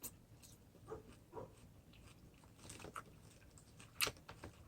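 A person chewing and biting food, with soft crunches and wet mouth clicks scattered through, the loudest about four seconds in.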